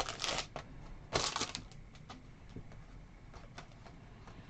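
Crinkling of a trading-card pack wrapper in two short bursts, the second about a second in, then faint light clicks and rustles of cards being handled.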